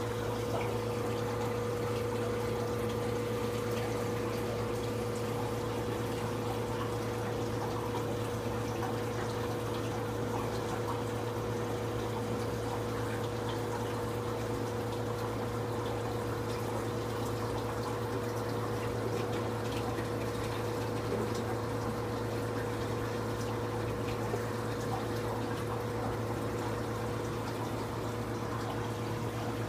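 Steady hum of a reef aquarium's pump over running, trickling water.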